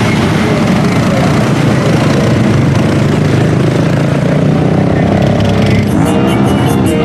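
Mud truck engine running loud and hard, a dense rumble, with music coming in near the end.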